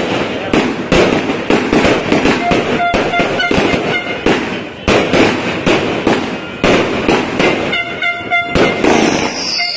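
Multi-shot fireworks cake (potted cake) firing a rapid, continuous string of aerial shells, with repeated bangs and the crackle of the bursting stars. A high falling whistle sounds near the end.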